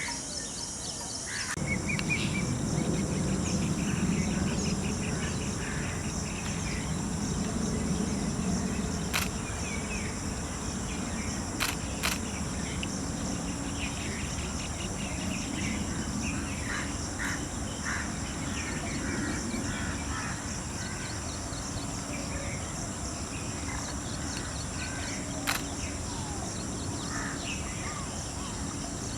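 Outdoor ambience: scattered short bird calls over a steady high insect drone and a low rumble that swells about a second and a half in. A few sharp clicks stand out around the middle and near the end.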